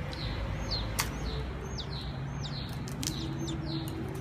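A bird chirping repeatedly in short, high calls, about two a second, over a steady low background noise. One sharp click about a second in.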